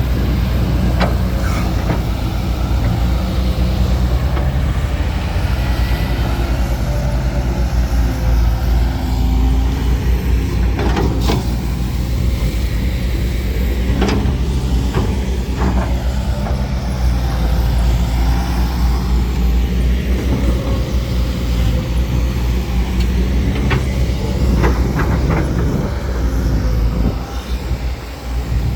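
Heavy diesel earthmoving machinery running steadily under load, a deep drone throughout, with a few short metallic knocks and squeals.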